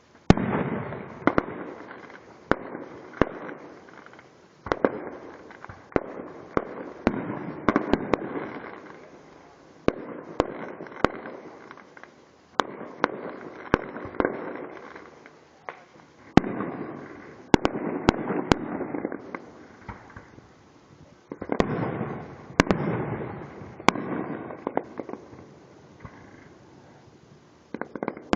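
Fireworks going off in a rapid, irregular barrage of sharp bangs, each trailing off in a fading rumble. The bangs come thickest about two-thirds of the way through, with short lulls between volleys.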